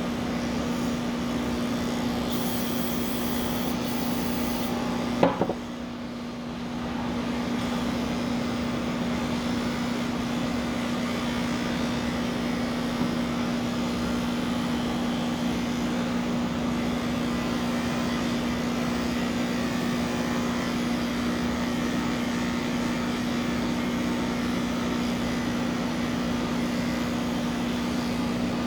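Electric grooming clippers running steadily with a constant hum while shaving a cat's fur. A sharp knock comes about five seconds in, and the hum dips for a moment before picking up again.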